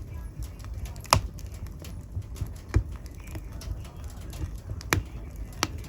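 Wood fire in a fireplace crackling: irregular sharp pops and snaps over a low steady rumble, with the loudest snaps about a second in, near three seconds, near five seconds and just before the end.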